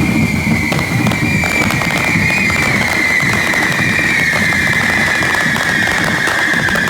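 Correfoc fireworks on devils' pitchforks spraying sparks: a loud, steady whistling shriek that slowly drops in pitch over dense hiss and crackle. Low drumming fades out in the first second.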